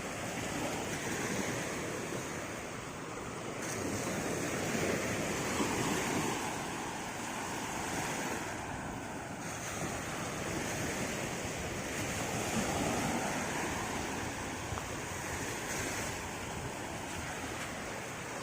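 Sea waves washing onto the beach, a steady rush that swells and eases every few seconds, with wind on the microphone.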